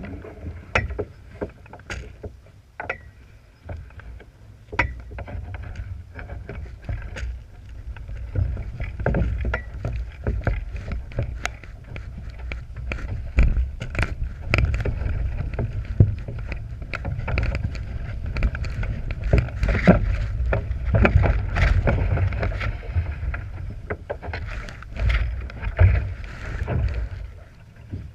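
Laser sailing dinghy under way: a low wind rumble on the microphone with many irregular sharp splashes and knocks of water against the hull, louder and busier from about eight seconds in.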